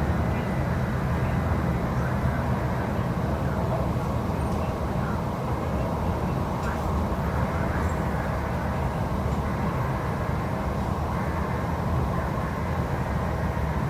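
Cabin noise of an MTR East Rail Line R-Train (Hyundai Rotem EMU) under way: a steady low rumble with faint steady higher tones.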